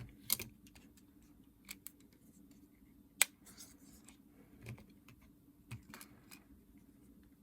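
Small scattered clicks and taps of plastic parts and tools being handled while a Nintendo DS Lite is taken apart and reassembled, with one louder sharp snap about three seconds in.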